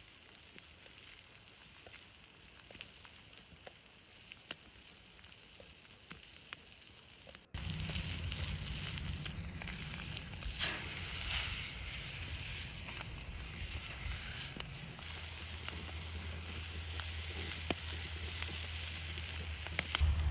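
Ribeye steaks sizzling in a pan over a campfire, with scattered crackles. About seven seconds in the sound cuts abruptly to a louder, denser sizzle with a low steady rumble underneath.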